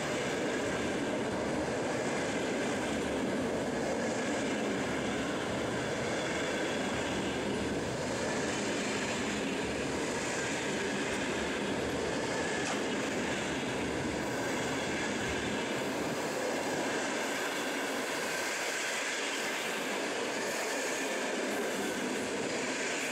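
Passenger coaches of a long train rolling past close by on a curved track: a steady rumble of wheels on rail, with a faint wheel-flange squeal. The deepest part of the rumble thins about two-thirds of the way through.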